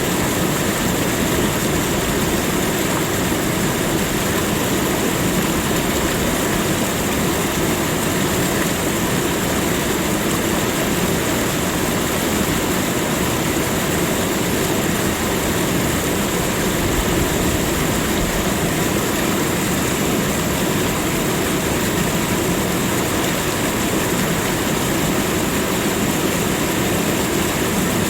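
Steady, unbroken rushing of flowing water, an even noise with no changes or distinct events.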